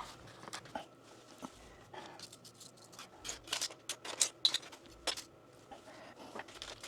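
Scattered light clicks and taps from plumbing parts and tools being handled, coming at irregular moments and more often in the second half.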